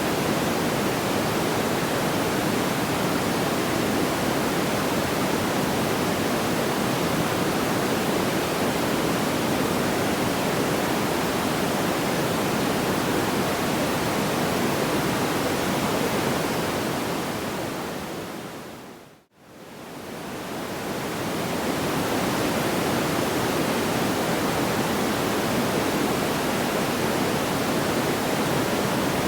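Steady, even rushing noise like pink noise, without distinct crackles or pops. About nineteen seconds in it fades down to silence and straight back up, the join of a looped sleep-sound track.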